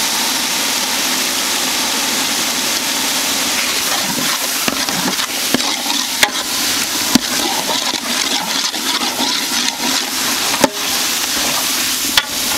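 Biryani masala of tomatoes, mint and coriander sizzling in hot oil in a large metal pot, stirred with a long metal spatula. The steady sizzle is broken by sharp clicks and scrapes of the spatula against the pot about half a dozen times.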